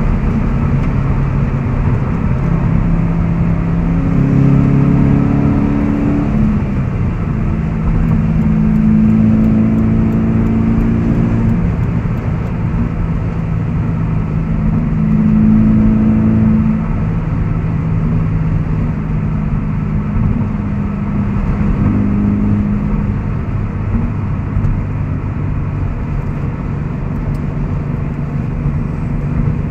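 2014 Subaru BRZ's 2.0-litre flat-four, breathing through a Corsa cat-back exhaust and Corsa intake, heard from inside the cabin while cruising at a steady highway speed. A low, even engine note shifts a little in pitch now and then with small throttle changes.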